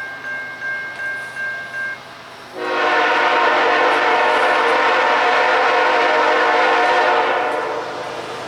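A bell dinging a little over twice a second, which stops about two seconds in. A locomotive air horn then sounds one long, loud blast of several tones together for about five seconds, fading near the end.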